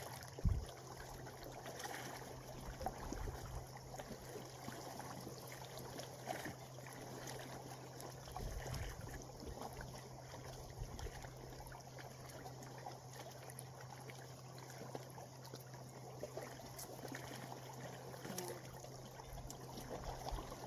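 Gentle water lapping and trickling, a faint crackly wash with fine ticks, over a steady low hum; one sharp thump about half a second in.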